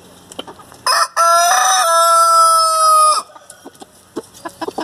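A Hamburg rooster crows once, about a second in, ending in a long held note of about two seconds. Faint clucking from the hens is heard around it.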